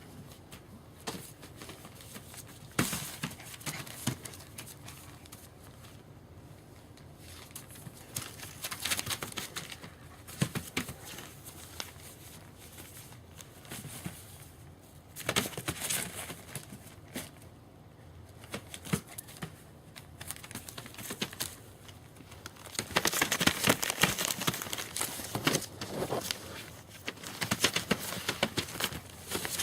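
German Shepherd puppies moving about and rustling on their bedding, with scattered crinkling and small knocks. The rustling grows louder and busier about three-quarters of the way through.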